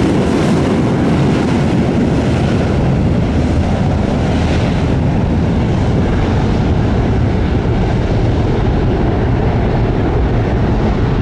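Jet aircraft engines at high power, a loud steady rush of noise heaviest in the low end, with wind buffeting the microphone.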